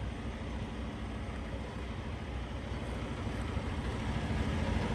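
Diesel semi-truck engine running at idle, a steady low rumble that grows slightly louder toward the end.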